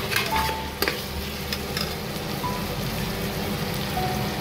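Onions and ginger-garlic paste sizzling as they fry in hot oil and ghee in an aluminium pressure cooker, a steady hiss. A perforated metal spoon stirs and taps against the pot a couple of times in the first second.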